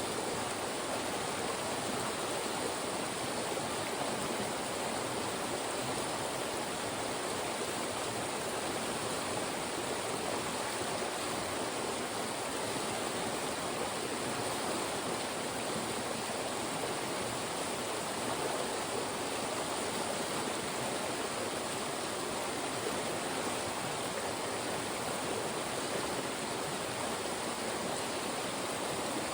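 Fast-moving mountain stream rushing through channels between rocks: a steady, even rush of water.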